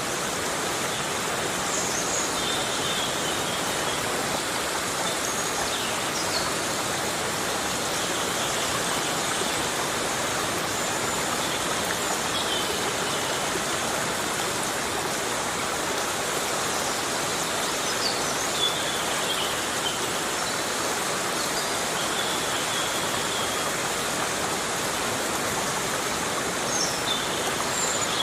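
Steady heavy rain falling in a forest, an even rushing hiss. A few faint, brief high chirps of birds come through it now and then.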